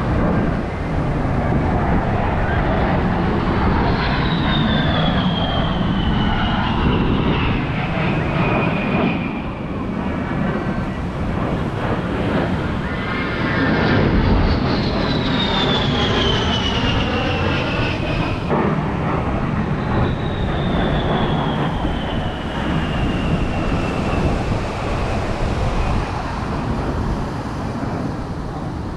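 A-10 Thunderbolt II jets flying past low, their twin TF34 turbofans rushing with a high whine that falls in pitch as each one goes by, three times, over wind and surf.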